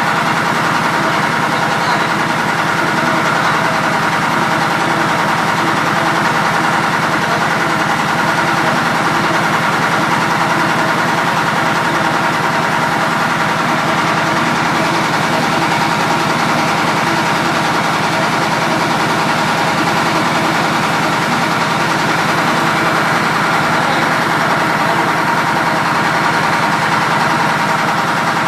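Engine idling steadily, with an even firing rhythm and a constant high whine over it.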